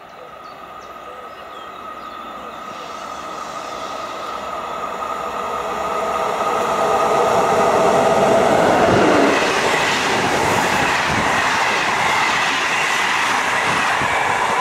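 ČD class 362 electric locomotive hauling a passenger train, approaching and passing close by. The sound grows steadily louder as it nears, with a steady tone, peaks as the locomotive goes by about eight to nine seconds in, then stays loud as the coaches rush past.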